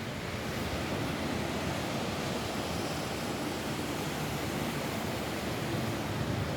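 Steady rain falling on a roof, an even hiss with no breaks or single drops standing out.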